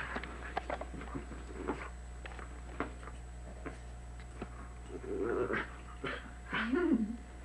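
Pet dogs moving and scuffling, with scattered clicks and rustles, then two short dog vocalisations about five and six and a half seconds in, the second rising and falling in pitch. A steady hum runs underneath.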